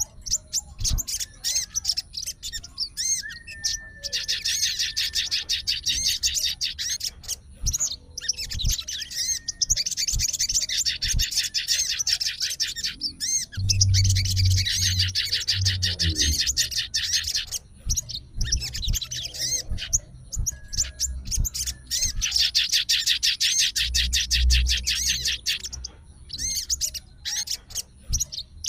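Sogon bird singing in full voice: long runs of very fast, high twittering notes, several seconds each, broken by short pauses. A few low thumps come about halfway through and again near the end.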